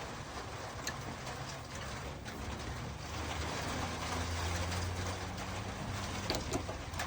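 Lathe running while drilling into a model-engine cylinder cap held in a mandrel: a steady low motor hum that swells for a couple of seconds in the middle, over a continuous cutting hiss, with a few sharp clicks.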